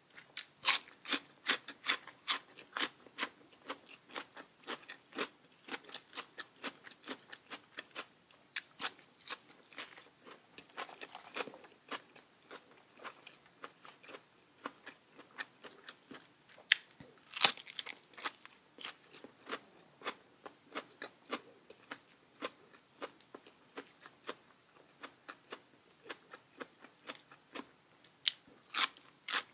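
Close-miked chewing of crisp raw vegetables: a rapid, uneven run of sharp wet crunches, with the loudest bites near the start, in the middle and near the end.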